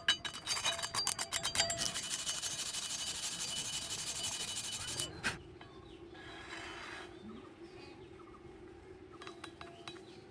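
Work on steel in a welding shop: quick ringing metallic taps for the first second or so, then a steady crackling hiss that cuts off suddenly about five seconds in, leaving a faint low hum.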